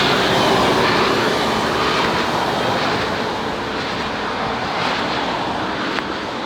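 Motorcycle running with wind noise, slowly getting quieter.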